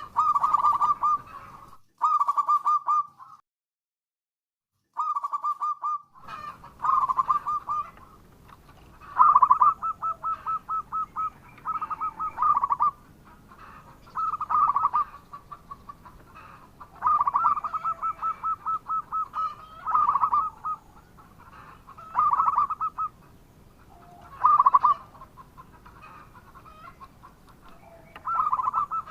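Zebra dove (perkutut) cooing: repeated phrases of quick rolling, pulsed coos, one phrase every one to three seconds. The sound cuts to silence for about three seconds near the start.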